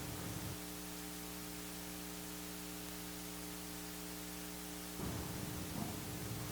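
Steady electrical hum with hiss, low-level room tone through the sound system. Faint low rustling comes back near the end.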